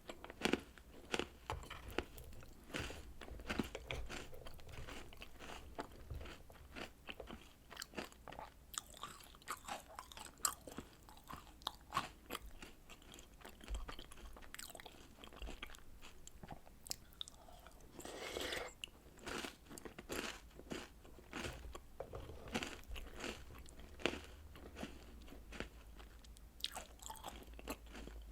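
Close-miked crunching and chewing of chocolate biscuits and cereal eaten with milk: a steady run of crisp crunches and bites, with a denser burst of crunching a little after halfway.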